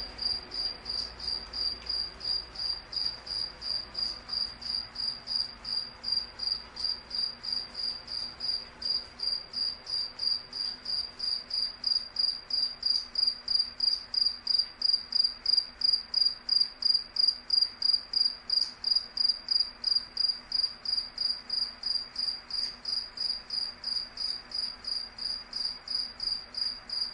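A cricket chirping steadily in a high, pure tone, about three chirps a second, growing somewhat louder toward the middle.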